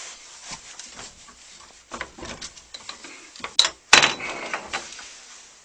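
Scattered metal clicks and knocks as the parts of a saw blade sharpening machine are adjusted by hand, the grinding head being set to a 10-degree angle; the grinder motor is not running. Two sharp knocks close together a little past halfway are the loudest.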